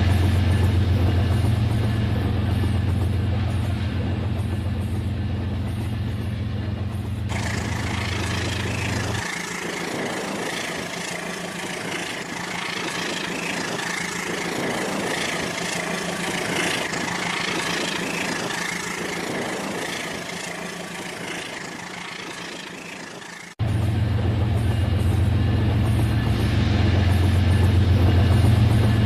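A steady engine-like rumble with a strong low hum. About seven seconds in it turns brighter and noisier and the low hum fades out. Near the end it cuts abruptly back to the low hum.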